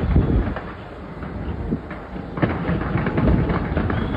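Fireworks going off in a rapid run of bangs and crackles over a low rumble. The sound is loudest right at the start, eases off, and builds again from about two and a half seconds in.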